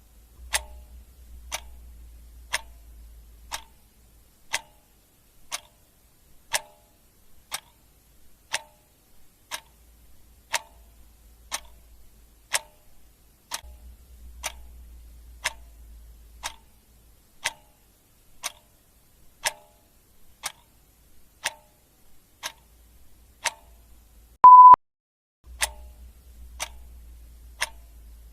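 Clock ticking steadily, about one tick a second. A short, loud beep sounds once near the end, and a faint low rumble comes and goes underneath.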